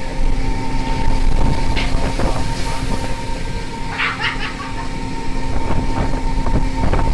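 Steady drone of a fishing boat's engine and machinery, with a few knocks and clatters about two and four seconds in.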